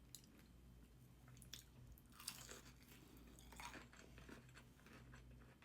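Faint chewing and crunching of a fried chicken tender, with scattered soft crunches through the bites.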